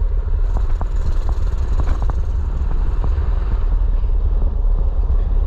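Mini bike engine running as it rides along, under a heavy steady low rumble, with scattered light clicks and rattles.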